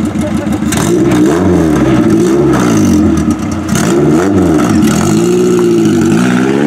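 Honda Civic hatchback engine being revved repeatedly from idle: its pitch climbs and drops in about five quick blips.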